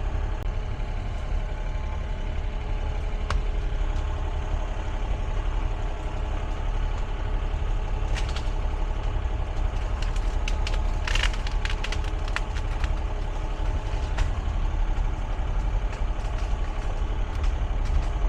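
Excavator's diesel engine running steadily while its tracks roll over brush and debris, with scattered sharp cracks of wood snapping and splintering, most of them in the second half.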